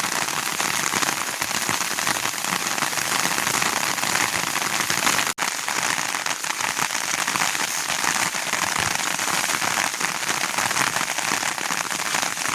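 Steady heavy rain falling, a dense, even patter of drops, with a split-second break about five seconds in.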